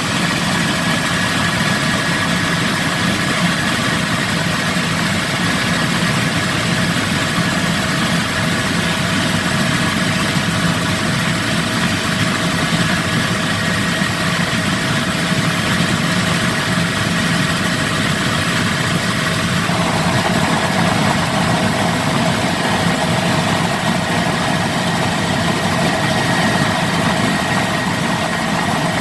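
Helicopter in flight: steady engine and rotor noise with a constant whine, its tone shifting slightly about twenty seconds in.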